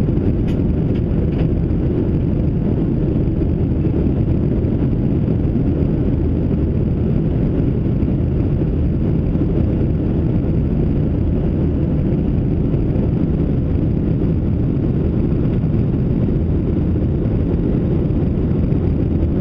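Steady low rumble of the CFM56 engines and rushing air heard inside the cabin of a Boeing 737-700 climbing after takeoff.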